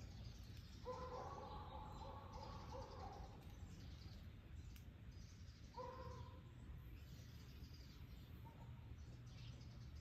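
Faint wild birdsong: a low pitched call lasting about two seconds starts about a second in and comes again more briefly near six seconds, with faint high chirps, over a steady low background rumble.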